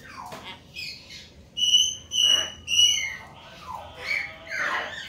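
Hill myna calling: three loud, clear whistles in quick succession about a second and a half in, surrounded by shorter gliding, chattering and squawking calls.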